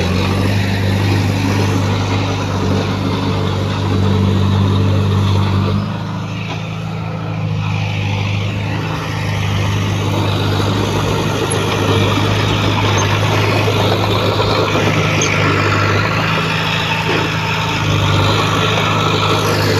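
Diesel engine of heavy earthmoving machinery running steadily under work, with a brief dip in level about six seconds in.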